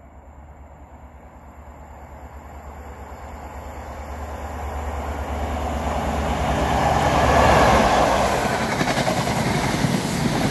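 High Speed Train with Class 43 diesel power cars approaching and passing through a station without stopping. The sound grows steadily louder, peaks about seven and a half seconds in as the leading power car goes by close, then continues as a loud rush of the train running past on the rails.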